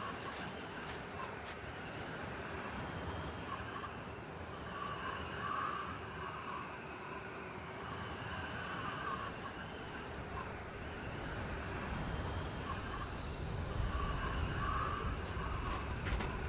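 Snowstorm wind ambience: a steady hiss of blowing wind with a faint, wavering howl that rises now and then, and a deeper rumble building near the end.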